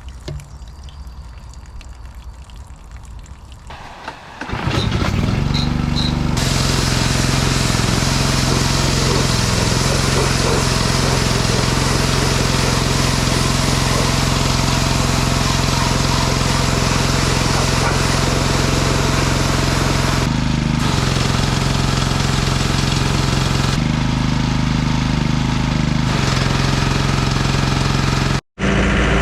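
Pressure washer starting about four seconds in and running with a steady hum, its water jet hissing as it blasts the clogged radiator fins clean. The spray eases off briefly twice, and the sound cuts out abruptly near the end.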